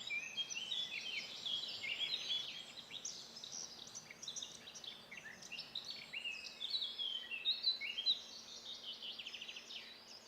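Songbirds singing outdoors: a dense, varied, unbroken stream of short chirps, whistles and slurred notes, with a quick run of rapidly repeated notes near the end.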